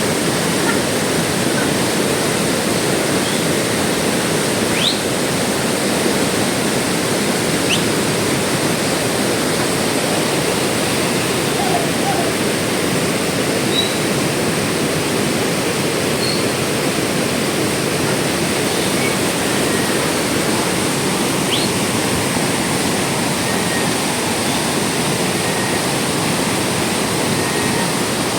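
Steady rush of water from a mountain waterfall and its stream. Three faint, brief high-pitched sweeps rise over it.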